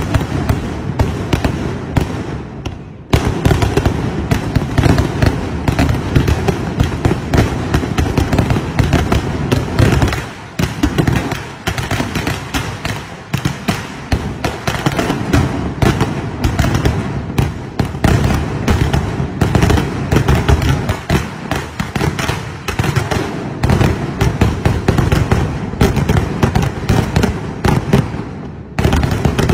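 Daytime fireworks barrage: shells and firecrackers going off in rapid, overlapping bangs, many a second, bursting into smoke overhead. The bangs ease briefly about three seconds in and again around ten seconds, then continue as densely as before.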